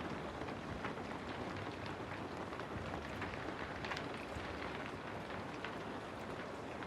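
Steady rain: an even hiss with scattered sharper ticks of drops.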